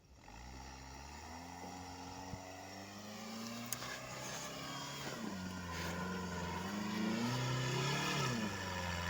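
Toyota 1NZ-FE 1.5-litre four-cylinder petrol engine of a tracked-style homemade all-terrain vehicle labouring uphill through deep snow, its revs rising and falling as the wheels slip and grip. It grows steadily louder.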